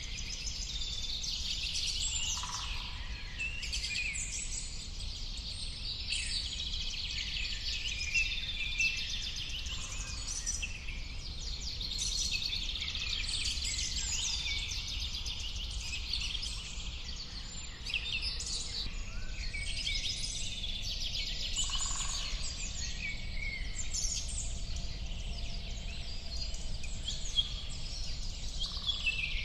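Many birds chirping and singing at once, a dense chorus of short overlapping chirps and trills, with a few lower calls now and then. A steady low rumble runs underneath.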